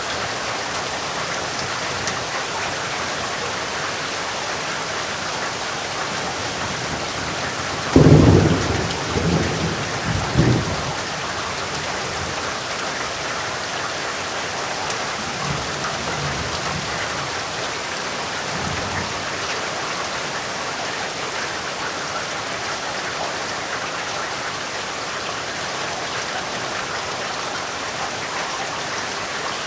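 Steady heavy rain, with a sudden loud thunderclap about eight seconds in that rolls on for a few seconds with a second crack, followed by fainter low rumbles of thunder.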